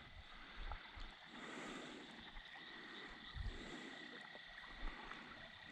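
Faint night-time ambience on the water: a steady high-pitched whine with a few soft low thumps.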